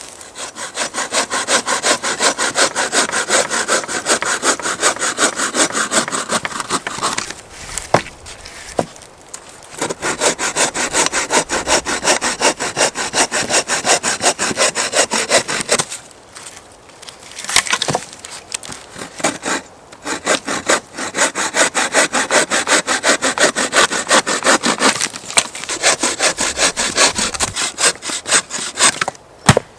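Hand saw cutting through wood in quick, even back-and-forth strokes. It runs in three long bouts with short pauses and a few knocks between them.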